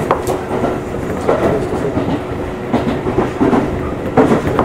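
Tobu Railway electric commuter train running, heard from inside the carriage: wheels clacking over rail joints about every second and a half, over a steady rumble and a faint hum.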